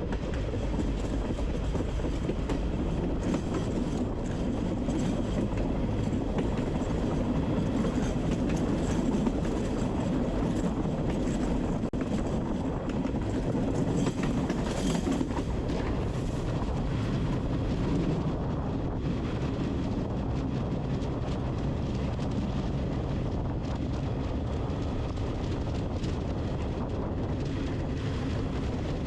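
Train running along the tracks: a steady rumble that swells slightly for a few seconds partway through.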